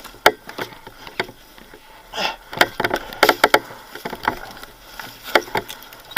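Irregular sharp knocks and clatter, a dozen or so short hits, with a brief rasping noise about two seconds in.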